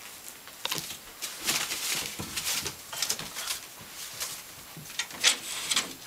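Five-week-old puppies playing together: irregular scuffling and scrabbling of paws and bodies, in uneven bursts, loudest about a second and a half in and again near the end.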